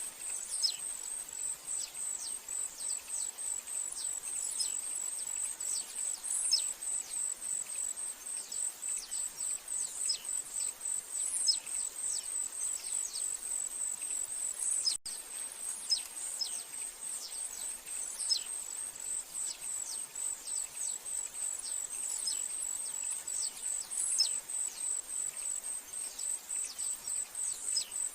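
Outdoor nature ambience: a steady, high-pitched pulsing insect trill runs throughout, with frequent short falling bird chirps over it.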